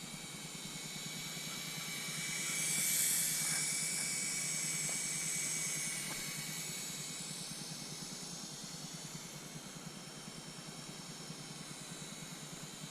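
Syma S107H-E mini RC helicopter in flight: a steady high whine from its small electric motors and rotors, with a hiss underneath. It gets louder about two seconds in, as if passing close, and fades back over the next few seconds.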